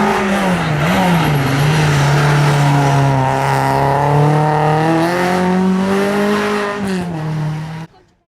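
A hillclimb competition car's engine running hard at high revs, its pitch dropping and climbing again with gear changes and throttle. It cuts off suddenly near the end.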